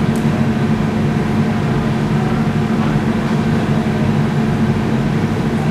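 A steady mechanical hum of a running motor, even in level and pitch throughout.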